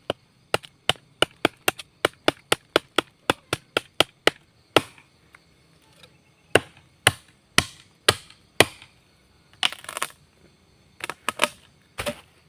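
A golok (machete) chopping into wood. There are quick strikes about three a second for the first four seconds, then slower single chops, with a short crunching, splintering stretch about two-thirds of the way through.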